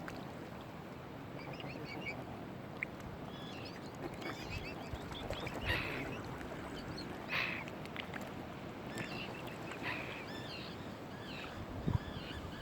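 Waterbirds calling: scattered short, high chirping peeps and a few louder, harsher calls, over a steady hiss of wind and water.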